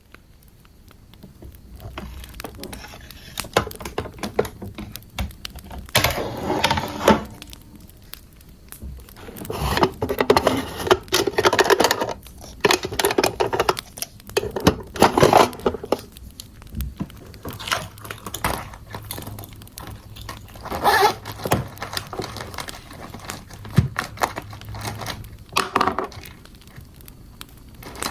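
Crackling fire: a steady scatter of sharp pops and snaps with louder rustling flare-ups every few seconds.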